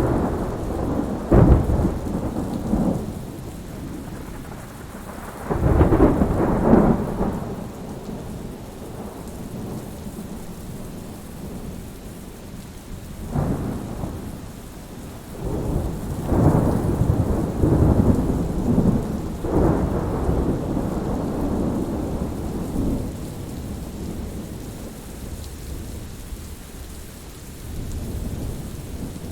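Thunderstorm: steady rain with several rolls of thunder that swell and fade, the longest rumbling on for several seconds past the middle.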